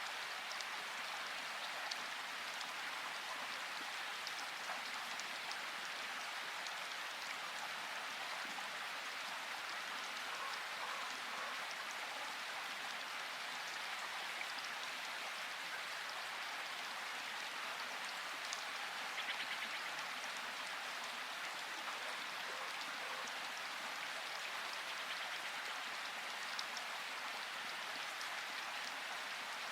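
Steady rain falling, an even hiss with scattered individual drops ticking, a few slightly louder ones a little after the middle.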